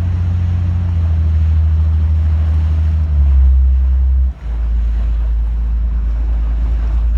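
Motorboat engine running with a steady low drone, under wind and rushing water. The engine note shifts about three seconds in, and the sound drops out for a moment about a second later.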